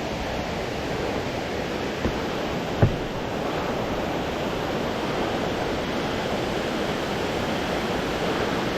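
Steady rushing of a large waterfall close by. A short knock sounds about three seconds in, with a fainter one just before it.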